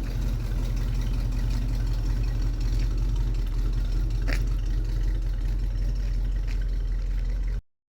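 1979 Winnebago Class A motorhome's Chrysler 318 V8 running steadily, with a brief click about four seconds in. The sound cuts off abruptly near the end.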